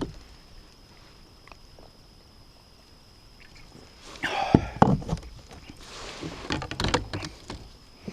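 Knocks and rustling from gear being handled aboard a fishing kayak: a quiet start, then a cluster of knocks and a rustle about four seconds in, and more knocks about six to seven seconds in.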